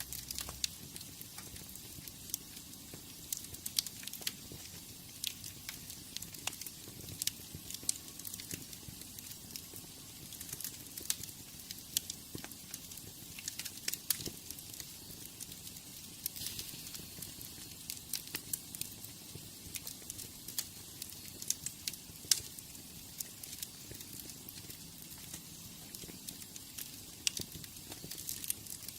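Wood fire burning in a fireplace, crackling with frequent irregular sharp pops over a steady hiss.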